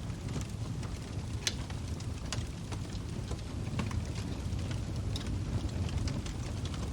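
Log fire burning in a fireplace: a steady low rumble of flames with frequent irregular crackles and sharp pops from the burning wood.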